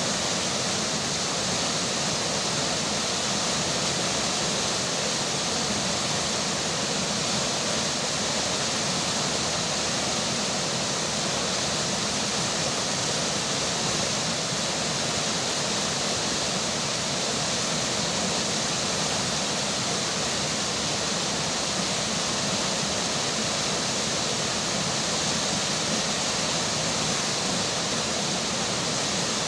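Flowing river water and falling rain, a steady, unbroken rush with no pauses or changes.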